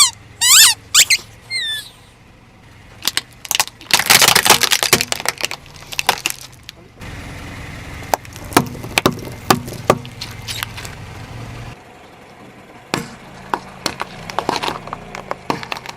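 Crunchy objects being crushed under a car tyre: dense crackling and snapping, heaviest a few seconds in, then scattered sharp cracks. A few high squeaks come at the start.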